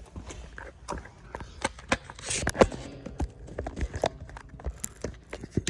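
Footsteps on a hard path: a run of irregular sharp clicks and knocks, with one louder knock about halfway through.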